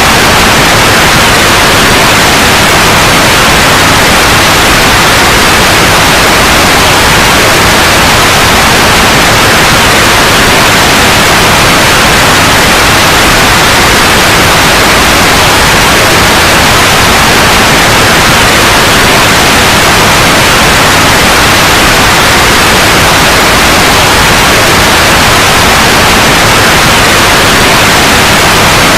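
Steady, loud white noise: an even hiss with no changes.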